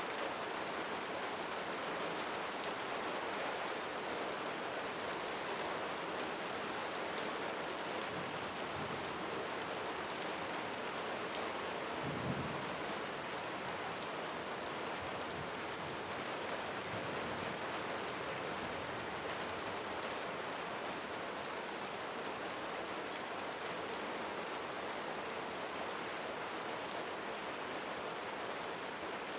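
Steady rain falling on leaves, an even hiss with fine drop ticks, and a brief low thump about twelve seconds in.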